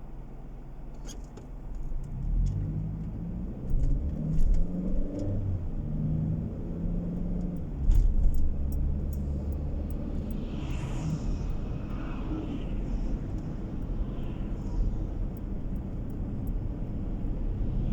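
Car engine and road noise heard from inside the cabin, growing louder about two seconds in, with the engine's pitch changing several times.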